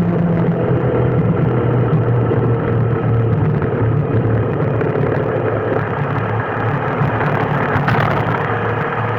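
A car's engine running steadily, with a low hum and even road noise.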